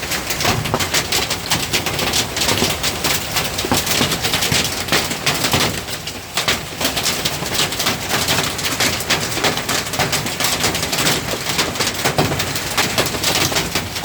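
Dime-sized hail falling hard, a dense, rapid clatter of countless small ice impacts that keeps on steadily, easing briefly about halfway through.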